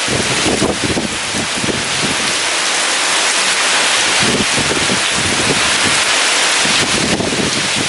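Heavy rain pouring steadily with strong wind gusting through it; the low gusts ease off briefly midway and pick up again near the end.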